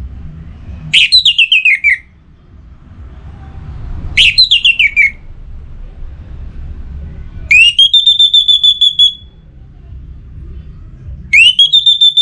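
Orange-headed thrush singing: two quick phrases of rapid notes falling in pitch, then two phrases that rise and hold as a fast high trill, over a low background rumble.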